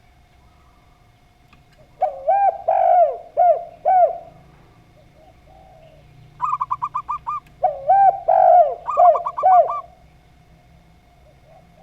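Doves cooing in two phrases, the second opening with a quick stutter of short notes before the looping coos. A faint steady tone runs underneath.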